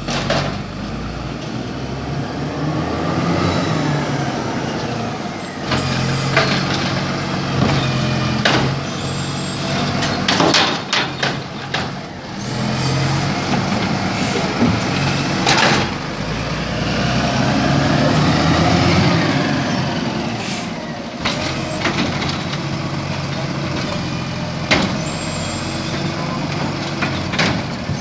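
Garbage truck at work, its diesel engine revving up and down several times, with about a dozen sharp clanks and bangs and the hiss of its air brakes.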